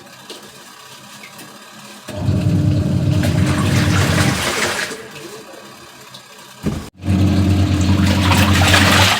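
Washing machine running: a steady low hum with water rushing through it, in two stretches of about two and a half seconds each.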